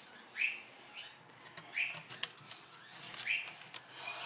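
A bird chirping: short rising chirps repeated about every second and a half.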